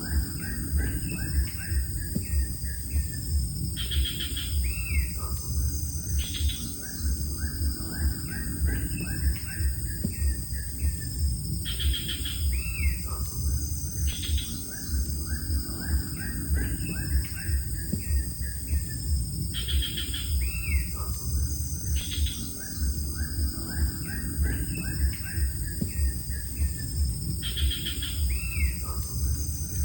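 Bird calls, runs of short chirps and a curved whistle, over a steady low rumble. The whole pattern repeats identically about every eight seconds, like a looped nature ambience track.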